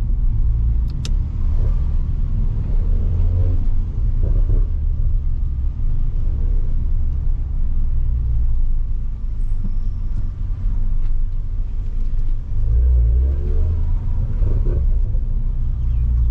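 Toyota Supra MK5's turbocharged 3.0-litre inline-six running under way with a steady low drone and tyre noise from the wet road, the revs swelling briefly about three to four seconds in and again around thirteen seconds.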